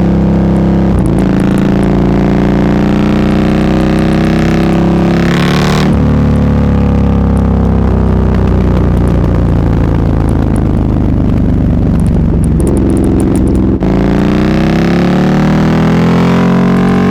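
Sport motorcycle engine with an aftermarket SC-Project exhaust, loud and close, with the revs climbing for about six seconds. The pitch then drops suddenly and winds down slowly as the bike slows, with a brief crackle near the end, before the revs climb again.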